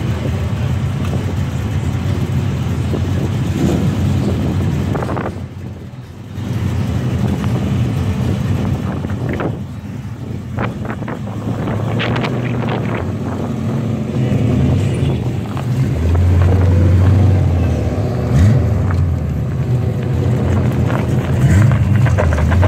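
Ford Mustang engines running in a parking lot, the cars idling and moving off. There is a deep exhaust rumble that swells loudest about two-thirds of the way through.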